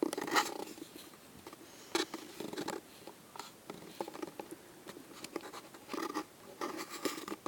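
Camera handling noise: irregular scratching, rubbing and small clicks as the camera is picked up and moved.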